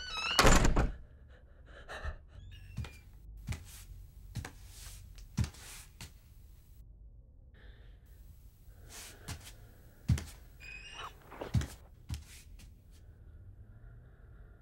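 A series of irregular knocks and clicks in a small room, with a loud jolt and a short squeak right at the start and another brief squeak about eleven seconds in.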